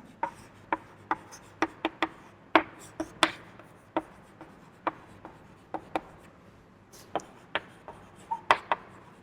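Someone writing by hand: irregular sharp taps and short faint scratches of the writing tool against the writing surface, about twenty strokes over the nine seconds.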